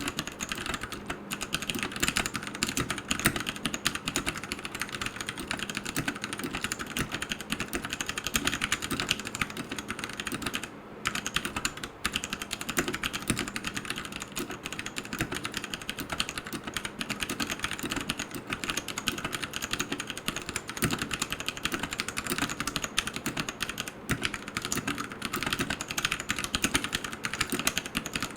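Typing on a Royal Kludge RK100 mechanical keyboard with tactile brown switches and AKKO clear keycaps: a steady, dense run of keystroke clicks, broken by a brief pause about eleven seconds in.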